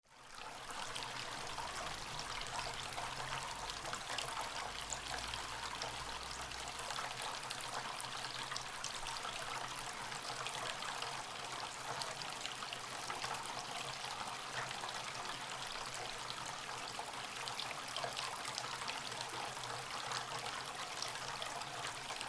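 Water falling and trickling steadily, as from a small waterfall.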